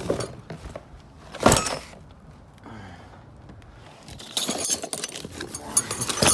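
Metal door locks and hardware clanking and rattling as they are handled: one sharp knock about a second and a half in, then a quick run of clinks and rattles from about four seconds on.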